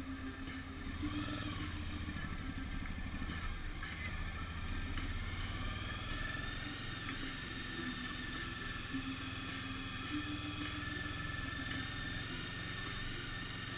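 Suzuki V-Strom DL1000's V-twin engine running at low road speed as the motorcycle rolls along, a steady low rumble whose pitch rises and falls slightly.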